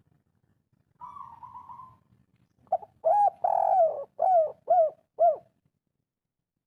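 Spotted dove (tekukur) cooing: a soft, drawn-out coo about a second in, then a louder phrase of long coos that ends in three short, separate notes, the 'kuk 3' song type.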